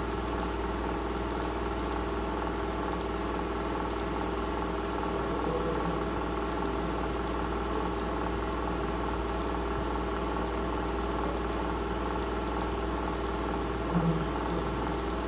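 Computer mouse clicking in quick press-and-release pairs, a couple of dozen times at irregular intervals, over a steady electrical hum.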